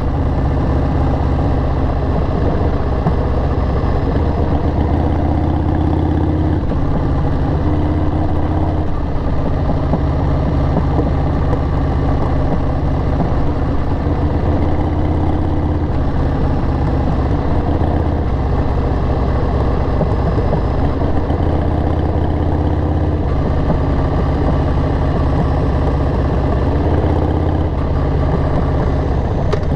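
2002 Harley-Davidson XL883R Sportster's 883 cc air-cooled V-twin running through aftermarket Cobra Speedster Short mufflers while riding. The engine note rises and falls several times with throttle and speed.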